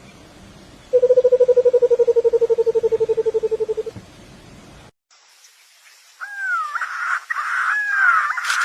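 A bird's loud, rapid pulsed trill on one low note for about three seconds. A few seconds later come harsh squawking calls that swoop up and down in pitch.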